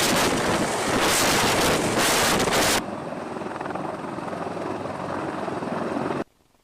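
Helicopter noise, loud and dense with wind buffeting the microphone. About three seconds in it cuts to a quieter, steadier helicopter sound with a faint hum, which stops abruptly near the end.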